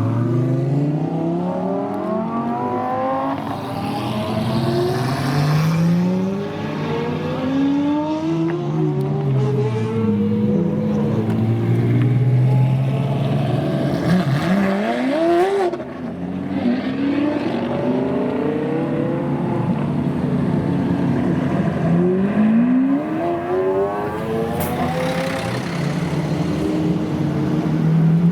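Several supercars, Lamborghinis among them, accelerating hard past one after another, their engines revving high, the pitch climbing, dropping back at each gear change and climbing again, with several cars overlapping.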